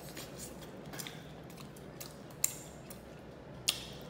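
Close-up eating sounds: small fried fish being chewed with soft crackles, broken by two sharp clicks about two and a half and three and a half seconds in.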